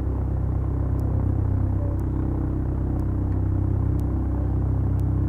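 Beechcraft Duchess's twin four-cylinder Lycoming engines and propellers running steadily, heard from inside the cockpit as an even, low drone. A faint tick recurs about once a second.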